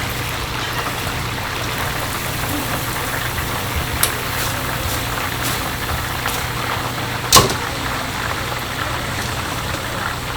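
Steady hum and hiss of running kitchen machinery, with a few sharp clicks or knocks. The loudest knock comes about seven seconds in.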